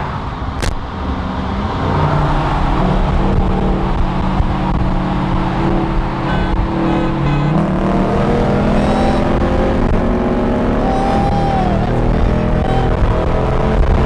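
Hemi V8 with a Flowmaster exhaust running loud, likely under hard acceleration, with its note stepping up in pitch about halfway through.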